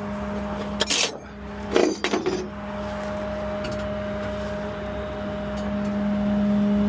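A vehicle engine idling with a steady hum, with a few short clicks and knocks about one and two seconds in.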